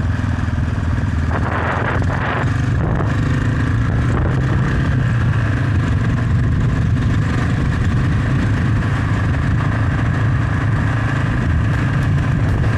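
Suzuki DR650's single-cylinder engine running at a steady cruising speed, with wind and road noise over it. There is a brief swell of rushing noise about two seconds in.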